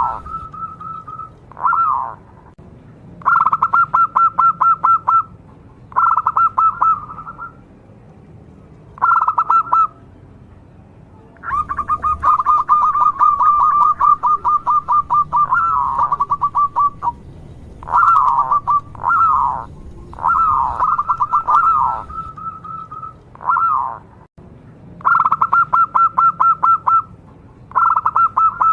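Local Indonesian zebra dove (perkutut) singing. It gives phrase after phrase of rapid, staccato cooing notes, each phrase lasting one to several seconds, with short single calls between them.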